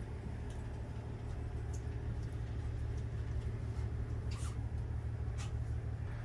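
Steady low rumble of the diesel sightseeing railcar, heard from inside the passenger cabin. Two brief high crackles come about four and five seconds in.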